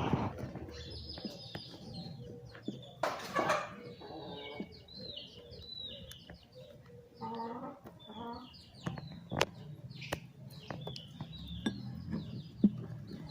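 Birds calling: a run of short, high chirps throughout, with a lower clucking call about seven seconds in and a few sharp clicks.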